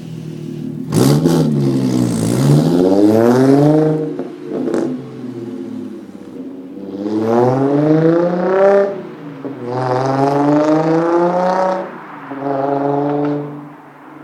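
2011 Audi S4's supercharged 3.0-litre V6 through an AWE non-resonated catback exhaust and downpipes, revving up four times, its pitch climbing with each rise before dropping back. The first and longest rev starts sharply about a second in.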